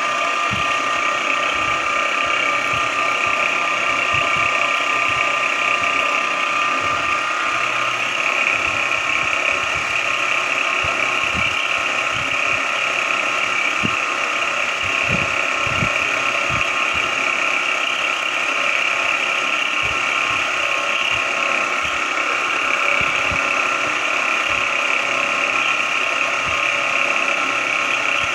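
Small benchtop machine tool running steadily, its motor and gearing giving a mechanical whine with faint irregular ticking; one high tone fades out about eight seconds in.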